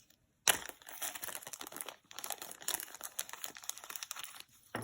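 Crinkling and rustling of packaging being handled, a dense run of small crackles that starts sharply about half a second in.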